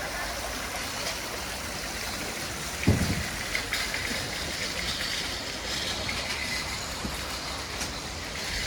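Steady rushing background noise, with one dull thump about three seconds in and a few faint clicks.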